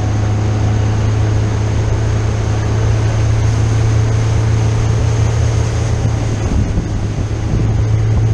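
Motorboat engine running steadily at cruising speed, a constant low drone under a rush of wind and water.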